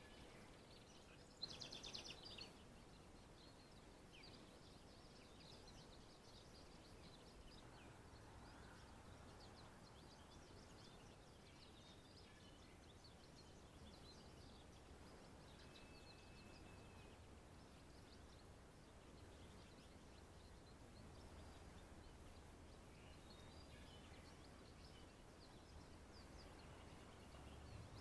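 Near silence with faint, scattered bird chirps. About two seconds in there is one brief, rapid run of high notes, and a faint low rumble sets in around halfway.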